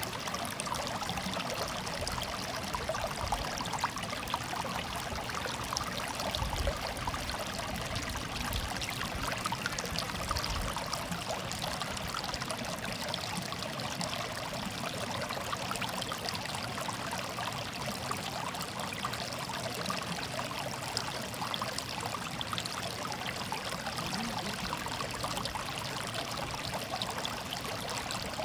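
Water running steadily in a shallow stream, a continuous babbling and trickling with no pauses or changes.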